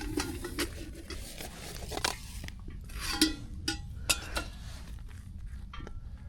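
Metal cutlery clinking and knocking against metal cookware: a string of small clicks and taps, with one ringing clink about three seconds in.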